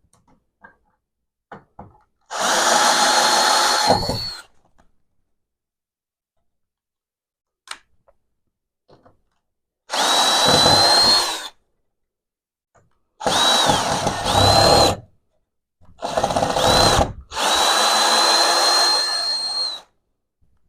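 Power drill running in five bursts of one to two seconds each, separated by short pauses, its motor whine falling away as each burst stops.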